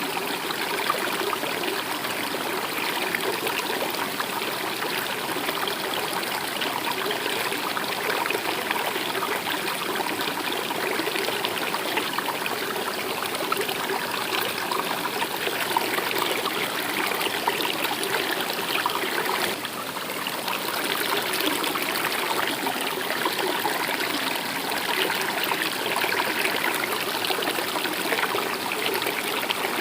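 A stream of water flowing and trickling steadily, dipping slightly in loudness about twenty seconds in.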